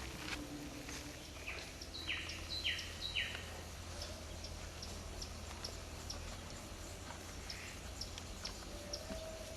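A bird calling: about four short notes in quick succession, each falling in pitch, around two to three seconds in, over outdoor background with scattered faint ticks.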